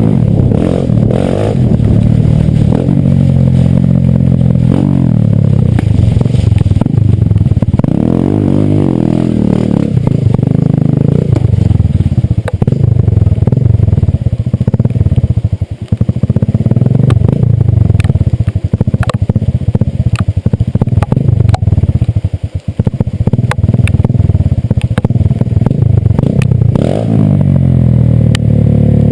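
Small motorcycle engine running on a trail ride, its pitch rising and falling as the throttle opens and closes, easing off briefly twice in the second half. Frequent knocks and rattles of the bike over rough ground run alongside it.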